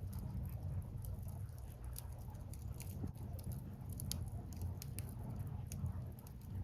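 Wood bonfire burning, firewood crackling and popping in many small, irregular snaps over a low steady rumble.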